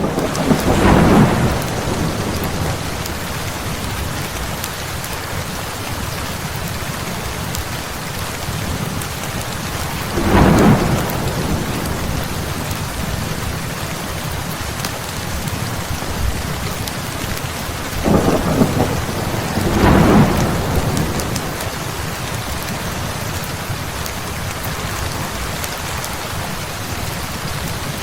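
Heavy rain falling steadily, with rolls of thunder rumbling up four times: once about a second in, once about ten seconds in, and twice close together around eighteen to twenty seconds.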